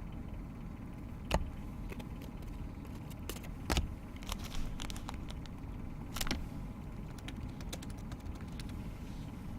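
Trading cards being handled and flipped through: scattered light clicks and taps of card stock at irregular intervals, over a steady low hum.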